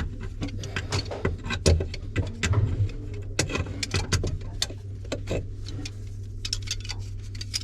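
Irregular light clicks, taps and clinks of small hard parts and tools being handled during drain work, over a steady low hum.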